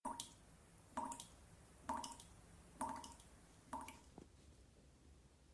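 Water dripping from a leaking shower, five drops about one a second, each a short pitched drip. The leak comes from a worn shower valve cartridge that needed replacing.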